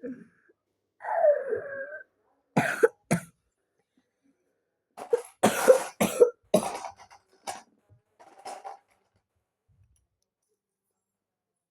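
A person coughing in a series of short bursts: two coughs, then a run of several more a couple of seconds later, with a throat-clearing sound before them.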